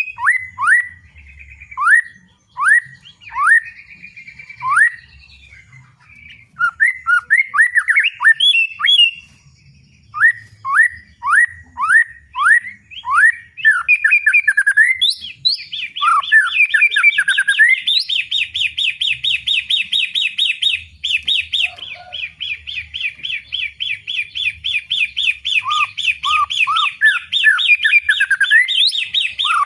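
White-rumped shama (murai batu) singing loudly: a series of clear whistled notes, each sliding downward in pitch, then from about halfway a long, fast run of rapidly repeated chattering notes.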